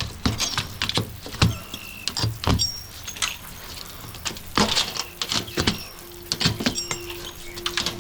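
Metal flashing being pried and pulled off: irregular clicks, taps and knocks with short metallic pings. A steady low hum comes in about five seconds in.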